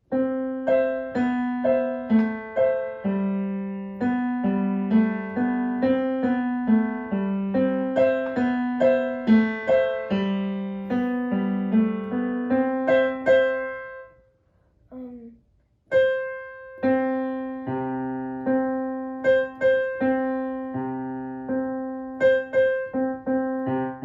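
Solo piano playing a simple piece, separate notes with a lower accompanying line. The playing stops about 14 seconds in, a brief 'um' follows, and the piece picks up again about two seconds later.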